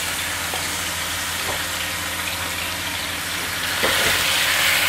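Marinated boneless chicken pieces sizzling in hot oil in a non-stick pan. Nearly four seconds in a spatula stirs them and the sizzle grows louder.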